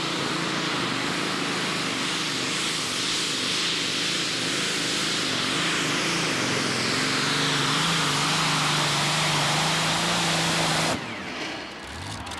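Modified pulling tractor's engines running flat out under load during a pull: a loud, steady roar with a wavering whine through it, cutting off abruptly near the end.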